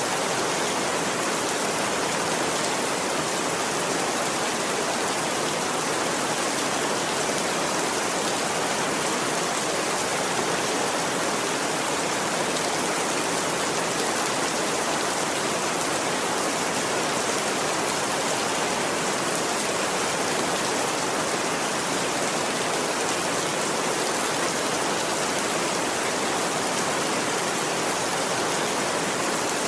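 Steady rain, a dense, even hiss that holds unchanged throughout.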